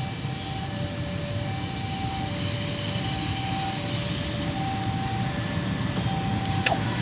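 Railway level-crossing warning alarm sounding two alternating tones, each held about three-quarters of a second, over a steady low rumble. A short click comes near the end.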